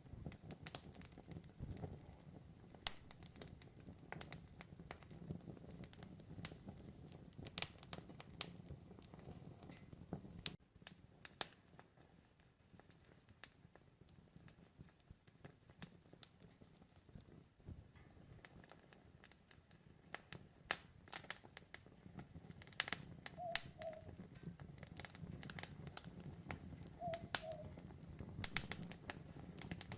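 Campfire crackling, with sharp pops at irregular times and a quieter stretch in the middle. Late on, an owl hoots twice, each call a short pair of notes.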